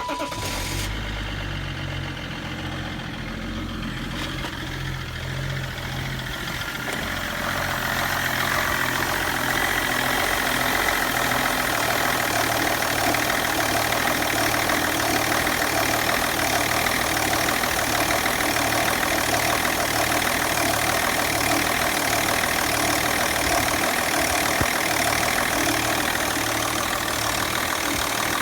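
BMW M57 straight-six diesel engine idling with a strange knock, the kind the owner says goes away after 10–15 minutes of driving. It gets louder about seven seconds in.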